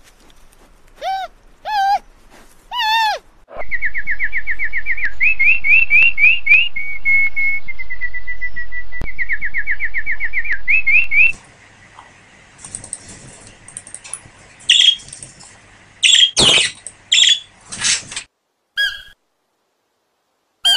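A bird singing a loud, rapid, trilling song for about seven seconds, starting about four seconds in. It is preceded by three short wavering calls and followed by scattered clicks and scratchy noises.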